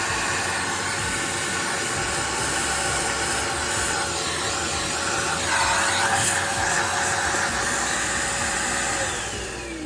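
A motor-driven machine running with a loud steady rushing hiss and a steady hum. Near the end it is switched off: the hum falls in pitch as the motor spins down and the rushing fades.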